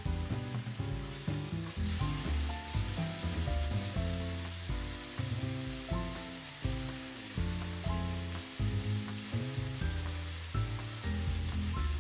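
Lotus root slices and shimeji mushrooms sizzling in oil in a frying pan over high heat. Background music with short notes and a bass line plays over it.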